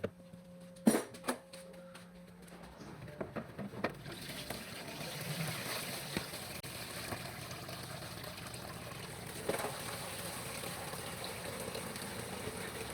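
A few sharp knocks and clicks, the loudest about a second in, then from about four seconds in a steady stream of liquid pouring.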